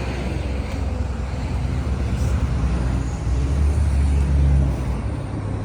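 Steady low rumble of road traffic, swelling louder as a vehicle goes by about three and a half seconds in.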